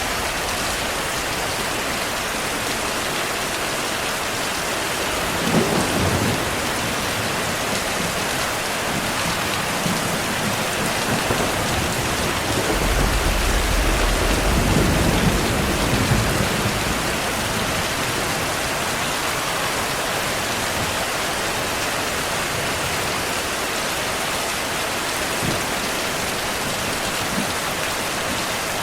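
Heavy rain falling steadily, with a short clap of thunder about six seconds in and a longer low rumble of thunder in the middle.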